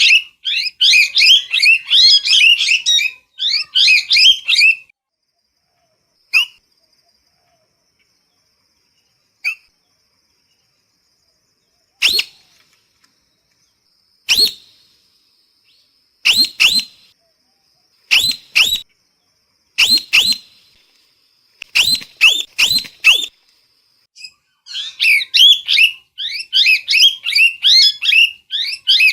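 Parrot calling: fast runs of shrill chattering chirps at the start and again near the end, with sharp single, paired and triple squawks a couple of seconds apart in between. A faint steady high tone runs under the middle part.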